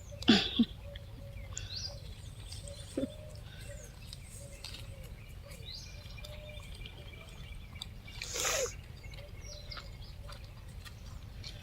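Birds chirping and whistling in short scattered calls over a steady low rumble, with a brief louder noisy burst about eight seconds in.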